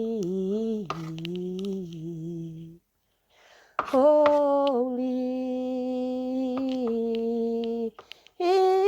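A single voice singing unaccompanied, drawing out the word "holy" in long held notes. The voice stops for about a second after roughly three seconds, then holds another long note.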